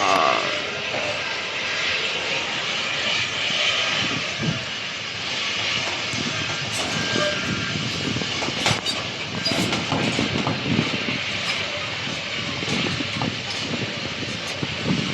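Aircraft engine noise, a steady rushing sound with a falling tone in the first second.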